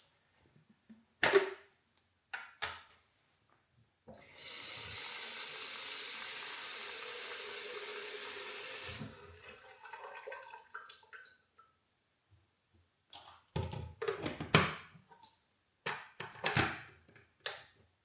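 Water running from a tap for about five seconds, then shut off, with light knocks and clatters before and after.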